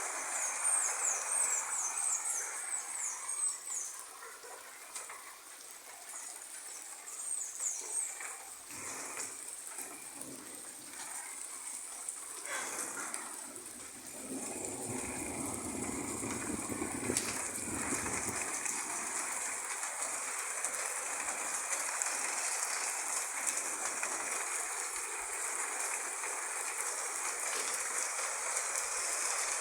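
Steady rain falling, a continuous hiss. High-pitched chirps sound briefly in the first few seconds and again about seven seconds in, and a deeper rumble swells in the middle for about four seconds.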